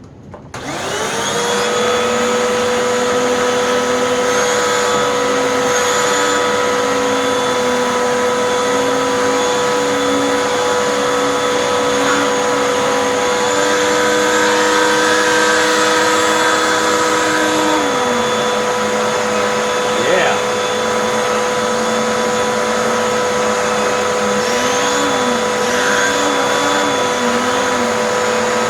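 Hoover WindTunnel 2 vacuum cleaner starting up under a second in and running steadily with a hand turbo tool on its hose. A lower spinning tone wavers and dips only slightly as the tool is worked on a surface: the turbo brush barely slows down, thanks to the suction relief holes in its front.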